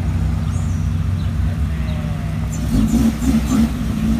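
Car engine running at low speed, with a few short revs near the end.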